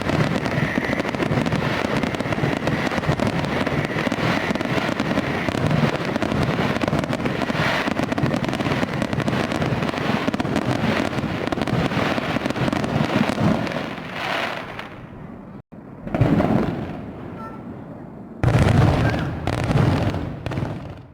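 Fireworks going off in a dense, continuous barrage of crackling and bangs that thins out about two-thirds through, followed by a single burst, a short lull, and a last loud cluster near the end.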